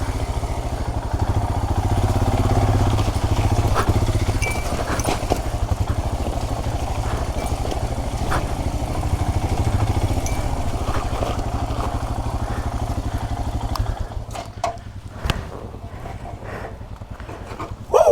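Royal Enfield Himalayan's single-cylinder engine running with a steady low beat, which drops away about fourteen seconds in, leaving quieter scattered sounds.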